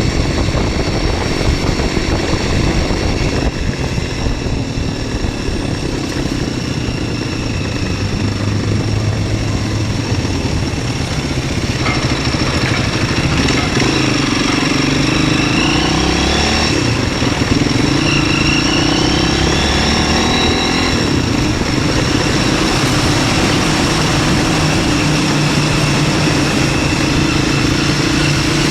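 MZ 125 SX's single-cylinder engine running under way, its pitch rising and falling as the bike accelerates and eases off, mostly in the second half, with steady wind rush over it.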